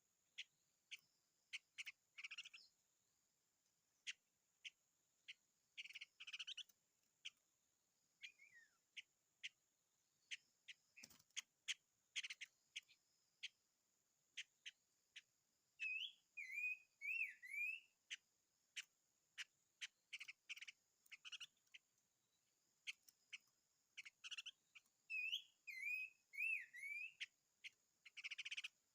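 Faint songbird calls: scattered sharp clicks and short chirps, with two runs of quick up-and-down whistled notes, one about halfway through and one near the end. A faint steady high-pitched whine sits underneath.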